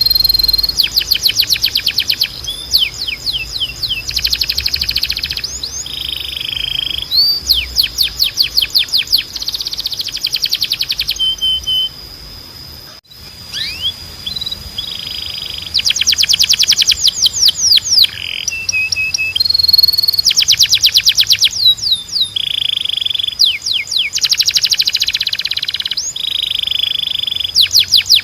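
Spanish Timbrado canary singing: fast trills of rapidly repeated notes and quick sweeping notes, alternating with steady held trills. There is a brief pause about halfway through.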